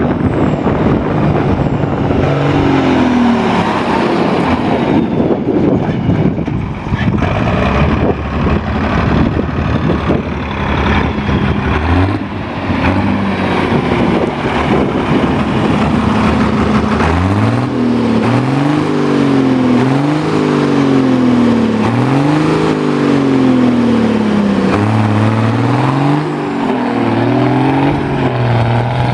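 Ford pulling tractor's engine running loud; from about two-thirds of the way in it revs up and down over and over, its pitch rising and falling every second or two.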